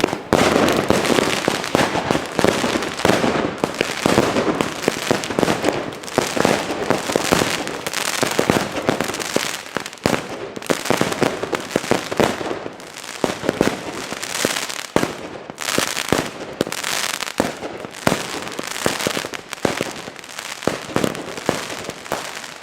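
Consumer fireworks cake firing a rapid, unbroken barrage of shots, bangs and crackle. The cake has tipped over and is firing its shots horizontally.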